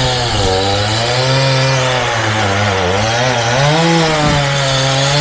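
Gas chainsaw running at high revs, its pitch sagging and rising again and again as the chain loads up cutting into the wood.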